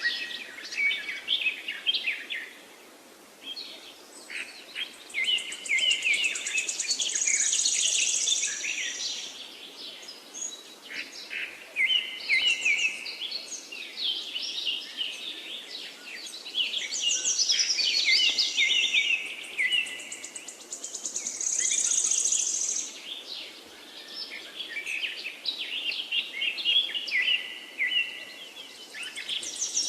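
Several songbirds singing, their chirps and trills overlapping in phrase after phrase, with brief lulls, over a faint steady hiss.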